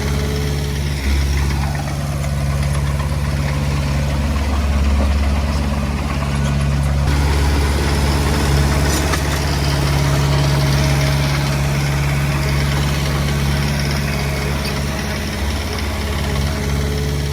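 Diesel engine of a Komatsu D20P bulldozer running steadily, its low hum shifting slightly a few times.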